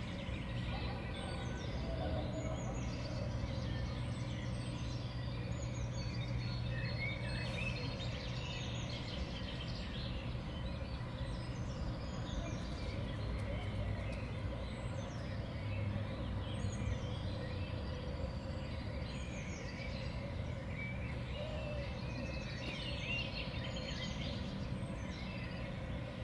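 Small songbirds at a winter feeder, many short chirps and calls overlapping, over a steady low background rumble.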